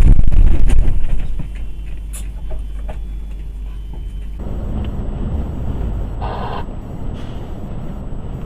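Vehicle engine and road noise picked up by a dashcam, very loud for the first second, then a steady low rumble. A short pitched tone, like a beep or horn, sounds about six seconds in.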